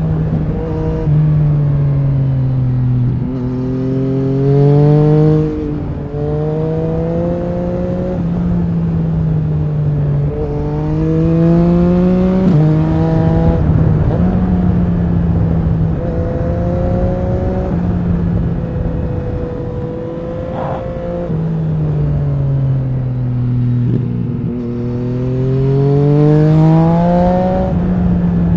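2020 Yamaha MT-09 SP's inline-three engine, breathing through an Akrapovic racing exhaust, pulling hard up through the gears: each rising note drops back at an upshift. About two-thirds of the way in the revs fall away as the rider eases off, then it climbs through the gears again, with wind rumbling on the microphone underneath.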